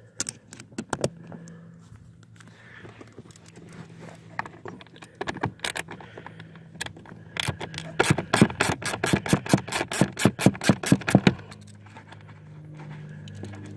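Hand ratchet backing out a blower-motor mounting screw. Scattered clicks and scrapes come first, then a quick run of ratchet clicks, about four a second, for some three seconds in the second half, over a steady low hum.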